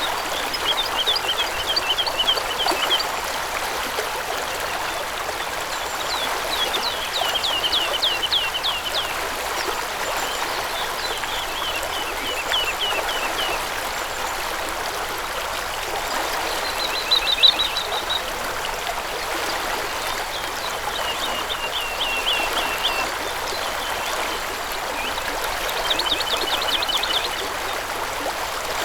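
Flowing stream running steadily, with a small songbird singing a short trill of quick falling notes about six times, every few seconds.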